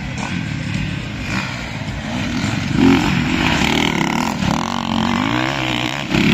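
Several motocross motorcycle engines racing, revving up and falling away through gear changes, with overlapping engine notes and one bike loudest about three seconds in.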